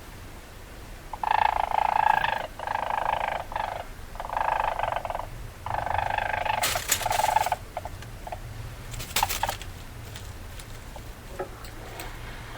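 Weasel calls: four rapid, chattering bursts of about a second or more each, one after another in the first half, followed by a few sharp clicks.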